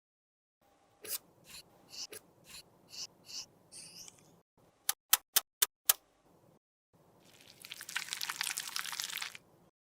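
Close-up sounds of makeup being worked by hand: a run of soft scraping strokes, then five sharp clicks in quick succession, then about two seconds of crackly crunching.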